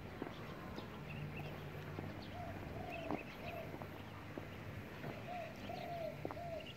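A bird calling outdoors in short, rising-and-falling notes: a pair a little over two seconds in, then three or four more in quick succession about five seconds in. Faint scattered ticks are heard between the calls.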